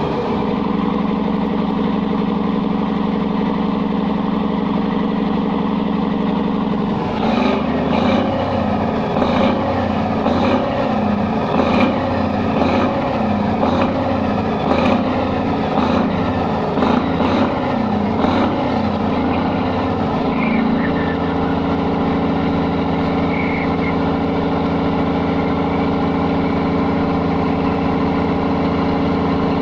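Cummins diesel engine running steadily, then for about thirteen seconds unevenly with a sharp knock about once a second, before settling back into a steady run at a slightly different speed.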